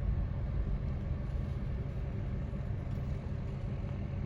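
Car engine idling with a steady low rumble, heard from inside the cabin while the car waits in a slow line.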